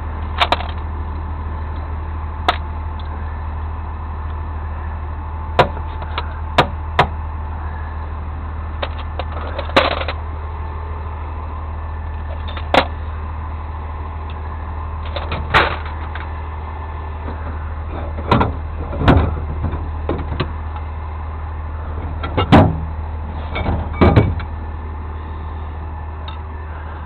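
A vehicle engine running steadily, with a dozen or so sharp knocks and clanks scattered over it, the loudest coming in a cluster near the end.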